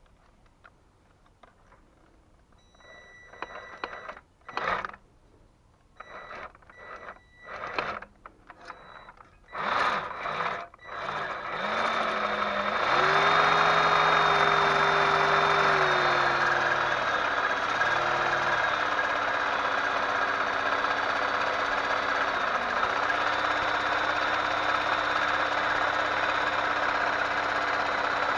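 A few seconds of short tones and knocks. Then a power tool starts and runs steadily, its pitch dipping briefly a few times as it takes load.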